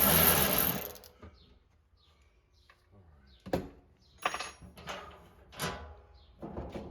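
A loud, even noise cuts off about a second in. After it come a few separate sharp metallic clinks, each ringing briefly: tools and metal parts being handled.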